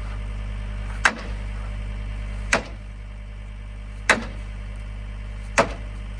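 Four hard hammer blows struck at an even pace, about one every second and a half, over the steady drone of an idling engine.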